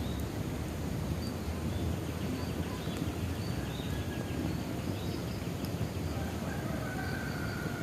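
Bonfire burning with a steady low rumble and a few sharp crackles, while birds call: short high chirps through the middle and a longer held note near the end.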